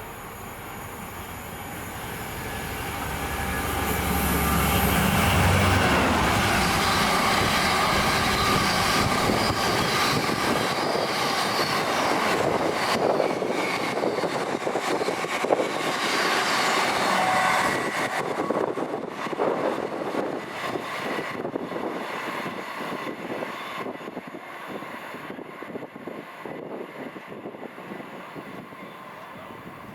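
A train passing through the station. Its noise builds over the first few seconds to a low rumble, stays loud with a rapid clatter of wheels on rail joints, then fades away from about eighteen seconds in.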